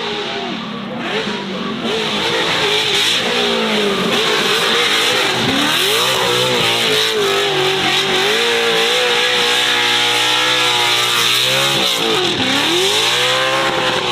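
Racing car engine running hard. Its pitch drops sharply twice and climbs back each time, as the driver lifts or changes gear and accelerates again.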